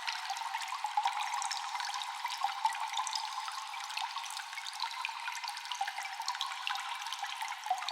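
Water dripping and trickling in a cave with echo: many small, quick drips scattered over a steady watery hiss.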